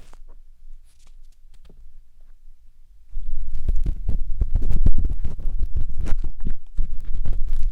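Matchstick scraping and rubbing inside the silicone ear of a 3Dio binaural microphone, heard as close, crackly scratching with a deep rumble. For about the first three seconds there are only a few faint taps, then loud, rapid scraping strokes begin.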